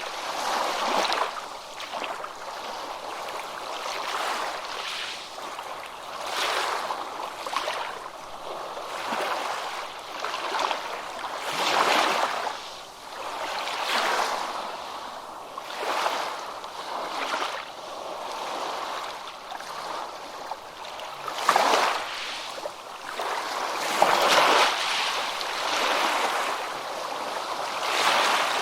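Ocean surf washing onto a beach, the wash of breaking waves swelling and fading every two to three seconds, with a few sharper splashes of breaking water.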